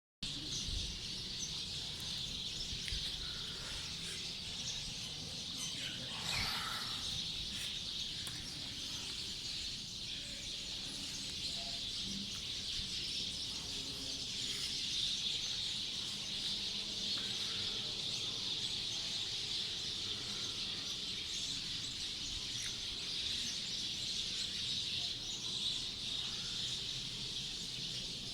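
Many small birds chirping together in a dense, continuous high-pitched chorus.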